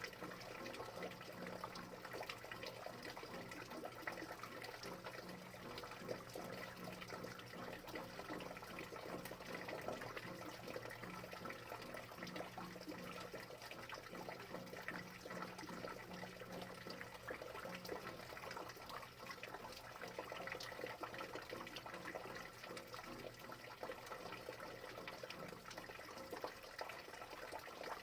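Steady rain with many small drops striking, over a faint low steady hum.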